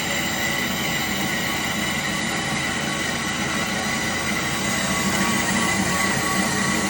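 Tannewitz TR2014W vertical bandsaw running with its blade cutting through a small aluminum piece: a steady mechanical noise with a thin high whine, growing a little louder about five seconds in.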